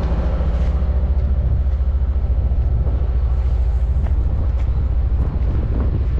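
Off-road haul truck's diesel engine idling steadily: a low rumble with a fast, even pulse.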